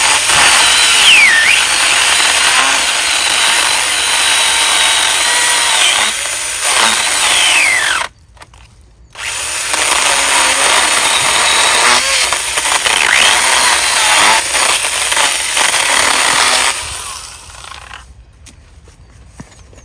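Small handheld pruning chainsaw cutting into a thick tree trunk, its motor whine dipping in pitch a few times as the chain bites. It runs for about eight seconds, stops for about a second, then cuts again for about eight seconds before winding down.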